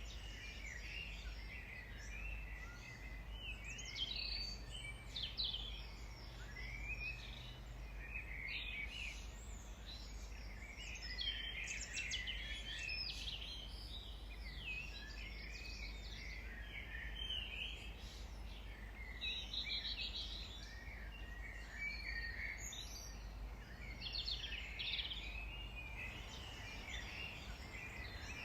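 Several garden songbirds chirping and singing at once, short overlapping calls and trills without a break, over a steady low hum.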